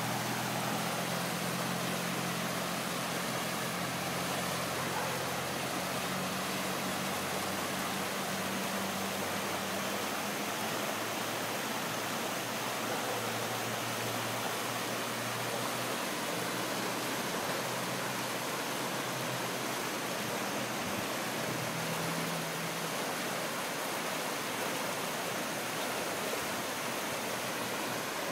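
Floodwater rushing in a steady, even noise. A low droning hum sits under it for about the first ten seconds and returns briefly later.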